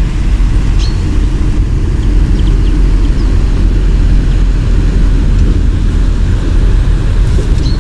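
Steady low rumble of outdoor background noise with short, faint, high bird chirps about a second in and again near the end.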